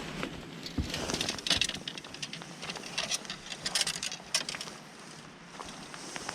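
Footsteps on wet steps and ground: an irregular patter of taps and scuffs, busiest in the middle and easing off near the end.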